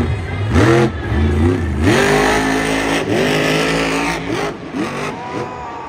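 Monster truck engine revving hard in repeated throttle blips, its pitch sweeping up sharply several times.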